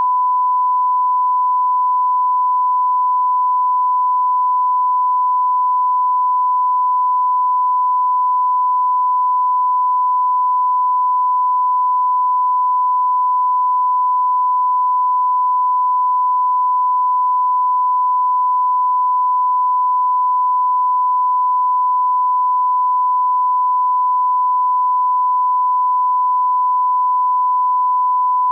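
A single steady sine tone like a test tone, held at one pitch without a break or change in loudness.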